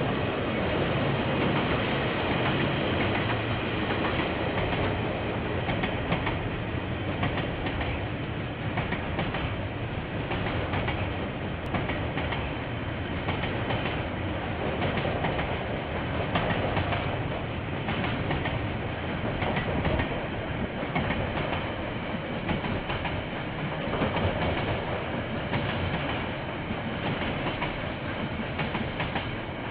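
A KiwiRail train rolling past, its wagon wheels clicking steadily over the rail joints, picked up by a security camera's microphone with a muffled, band-limited sound.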